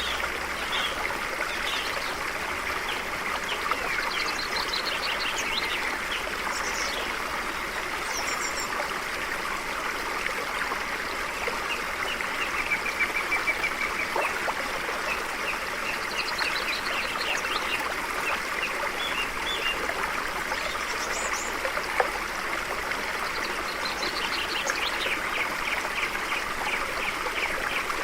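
A stream running steadily, with small birds chirping and trilling over it, in bursts of quick repeated notes. One sharp click about three-quarters of the way through.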